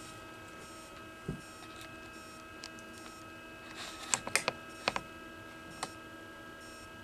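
Powered-on Pro'sKit SS-331 desoldering station giving a faint steady electrical hum made of several thin tones, with a few sharp clicks and taps: one about a second in and a quick cluster around four to five seconds in.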